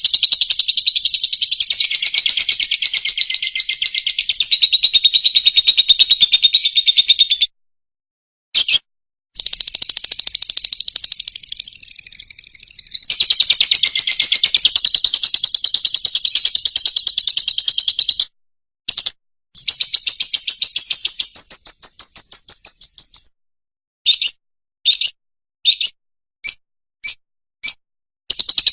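Fischer's lovebird singing: long runs of rapid, high chattering chirps, broken by a few short pauses and ending in a string of short separate bursts.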